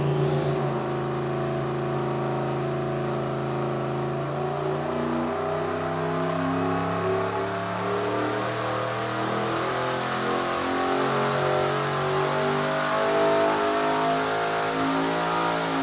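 Turbocharged V8 on an engine dyno making a wide-open-throttle pull, its note climbing steadily in pitch as the revs sweep up to about 6,100 rpm, then dropping off as the throttle is closed at the end.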